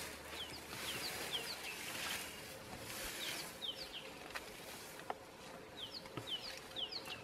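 A bird calling: short, high whistled notes that fall in pitch, in quick runs of two or three, repeated several times. A couple of faint knocks sound in the second half.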